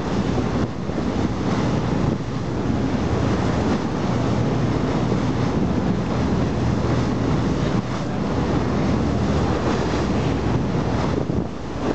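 Wind buffeting the camera microphone over the wash of sea surf, a steady rumbling noise.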